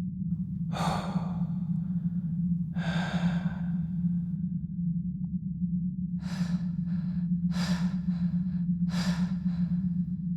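A person breathing heavily: two long breaths, then a quicker run of shorter, gasping breaths from about six seconds in, over a steady low hum.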